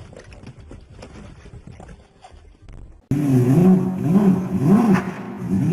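Quieter car road noise with light clicking and rattling. About three seconds in, it gives way abruptly to a loud car engine revving up and down several times.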